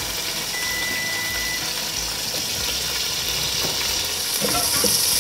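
Chopped tomatoes and spices sizzling as they fry in hot oil with browned onions in a pot. The sizzle grows louder near the end, with light clicks of a wooden spatula stirring.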